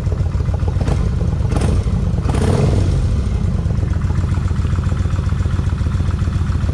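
A 1600 cc motorcycle engine running with an even, steady pulse, with brief rushes of noise in the first few seconds. No separate rocker-arm ticking stands out over it.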